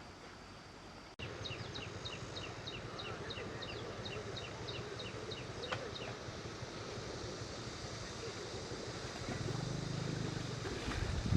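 Outdoor ambience with a steady low rumble and wind noise. After a cut about a second in, a run of quick, high chirps comes at about four a second for some four seconds, from a small animal. A short low hum rises near the end, followed by a knock.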